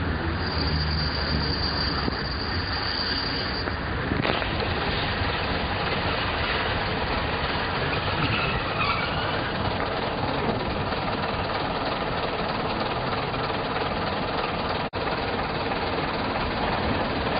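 Running noise of a train heard at an open window as it rolls over the rails through a station, a steady rumble and hiss. A high steady whine and low hum sound for the first four seconds, then stop with a click. Near the end a high-speed train starts to pass close alongside.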